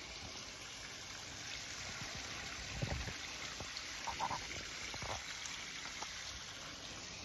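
Water from a small garden stream and waterfall splashing and trickling steadily over stones, with a brief faint chirp about four seconds in.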